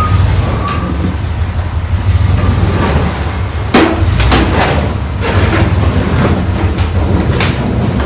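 A vehicle engine running steadily, with a series of sharp metallic clanks and knocks starting about halfway through.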